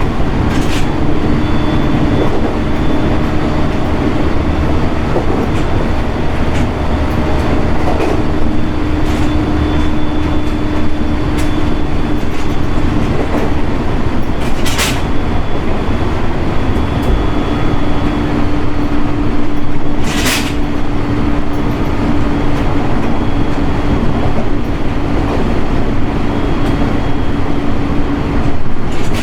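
JR East 701 series electric train running along the track: a steady rumble of wheels on rail under a held motor hum that drops out and comes back a few times. Two sharp clicks sound around the middle.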